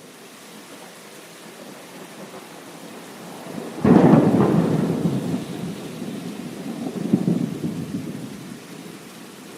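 Thunder over steady rain: a sudden loud clap about four seconds in that rolls off into rumbling, swells again a few seconds later, then dies away, leaving the rain hiss.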